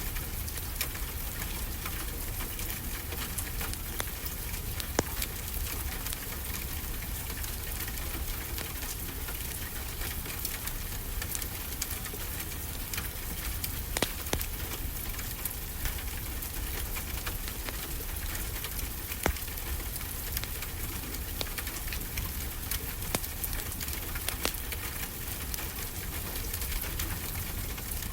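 Steady rain falling, with a wood fire crackling: scattered sharp pops over the even hiss of the rain.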